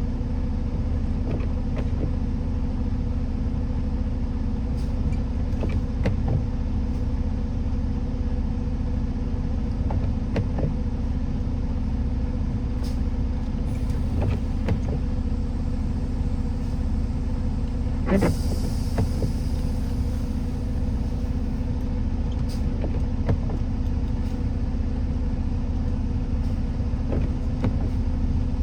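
Steady engine and road rumble of a vehicle being driven, with a constant hum, scattered faint clicks, and a brief hiss about eighteen seconds in.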